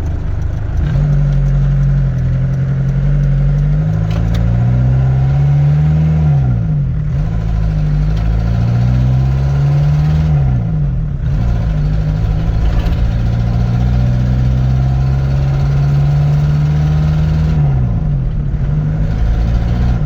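Mk2 Ford Transit van engine pulling under load on the road. The engine note climbs steadily and drops sharply three times, at gear changes about 7, 11 and 18 seconds in, with a steadier stretch between the second and third.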